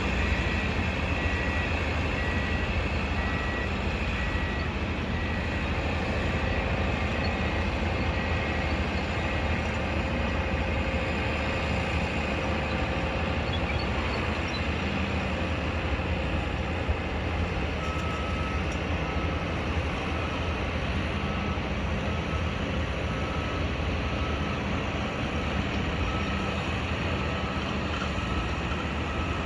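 Construction-site noise: a steady low rumble of heavy machinery with a reversing alarm beeping evenly at the start. A second, lower-pitched reversing alarm starts beeping a little past the middle.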